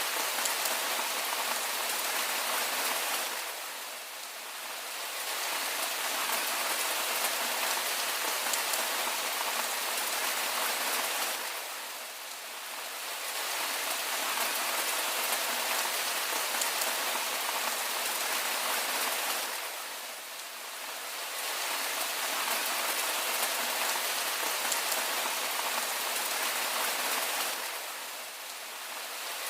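Steady rain falling on a surface, an even hiss that softens briefly about every eight seconds, three times.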